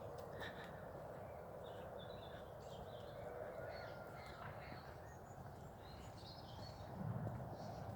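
Faint riverside ambience: a steady low hiss with scattered short chirps and calls of small birds.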